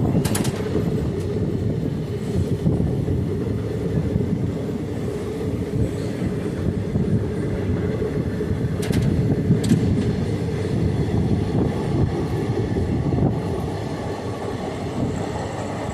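A moving passenger train heard from on board: a steady low rumble of the carriages on the track, with a few short clicks of the wheels over rail joints near the start and about nine seconds in.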